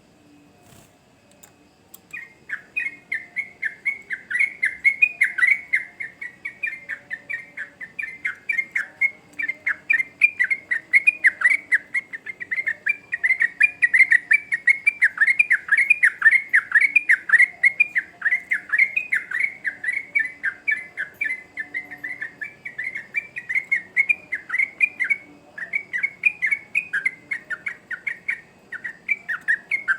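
Yellow-vented bulbul (trucukan) singing a long, unbroken song of rapid short notes, starting about two seconds in.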